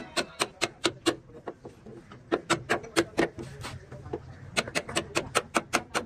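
Hammering in three quick runs of sharp blows, about five a second, over a steady low hum.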